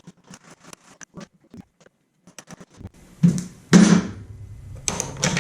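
Scattered light clicks and scrapes of metal parts being handled, then two louder thunks about three and four seconds in, as a motorcycle fork leg is worked down out of its clamps.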